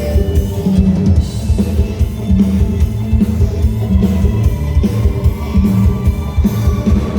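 Live band playing a luk thung song: a steady drum-kit beat with bass and guitar.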